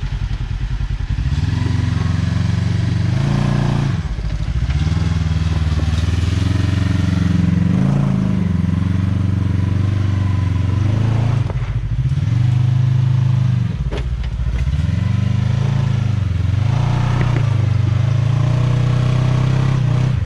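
Side-by-side UTV engine idling, then revving up and down over and over in short pushes as the machine crawls over rocks, with a few knocks and clatters from the chassis against rock.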